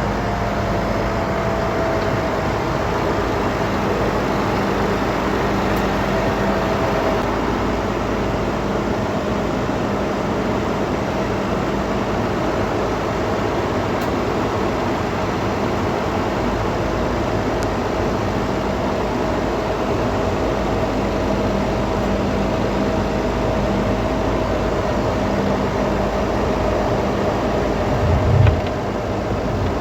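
Farm machine engine running steadily, with a faint whine held above the drone. A short, heavy low thump comes near the end.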